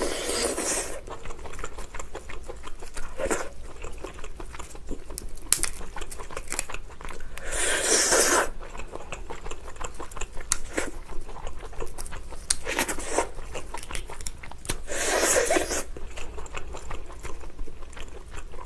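Close-miked eating of steamed lobster: wet chewing with many small crunching clicks from the meat and shell, and a few louder noisy bursts about a second long.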